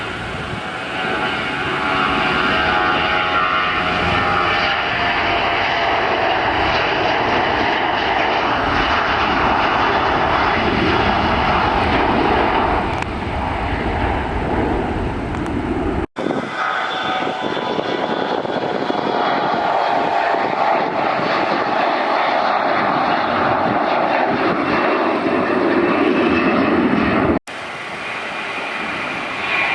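Jet airliner engines, loud and continuous, with a whine that slides down in pitch as the aircraft passes. The sound breaks off abruptly twice for an instant.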